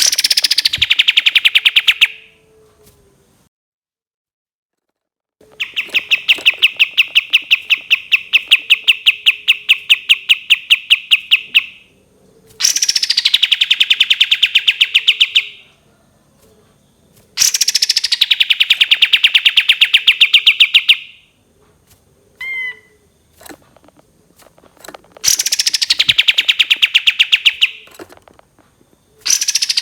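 Kapas tembak songbird singing long, fast trills: five runs of rapidly repeated notes, each opening with a quick downward sweep and then holding a steady high pitch for several seconds, with short pauses between them.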